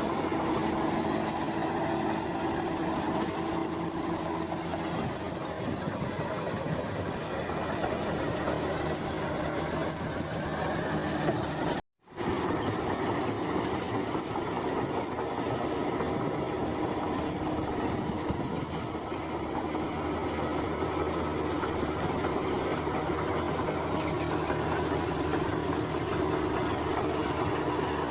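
Komatsu crawler bulldozer working: its diesel engine runs steadily under the metallic squeal and clatter of its steel tracks. The sound cuts out for an instant about twelve seconds in, then carries on as before.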